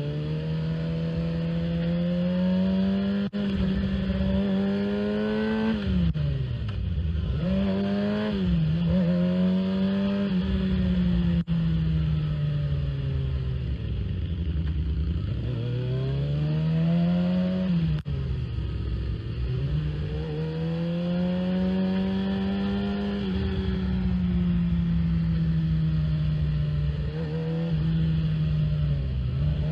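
Motorcycle engine running and revving, its pitch climbing and dropping again several times as it speeds up and slows down, with a couple of short clicks.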